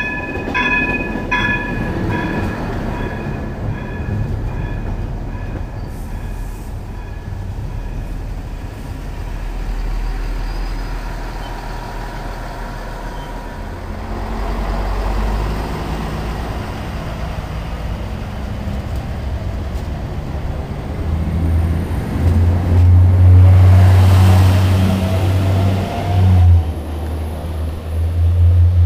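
Bombardier Talent diesel multiple unit passing close on the track with a rumbling rush of wheels on rail. A bell-like tone rings about twice a second at first and fades away. Later a low, steady diesel engine drone grows loud, with a rising whine near the end as the train pulls.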